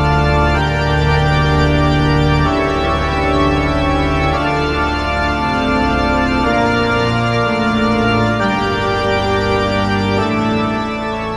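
Roland JD-XA synthesizer playing a preset patch: sustained chords that change every two seconds or so, fading out near the end.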